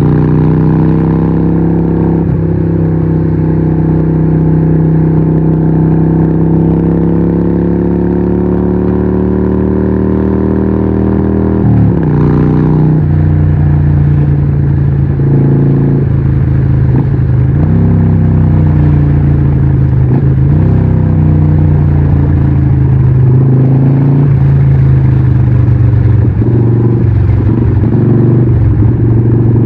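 Harley-Davidson 1200 Nightster's Evolution V-twin running loud through a Vance & Hines exhaust. Its pitch climbs slowly, drops abruptly about twelve seconds in, then rises and falls with the throttle.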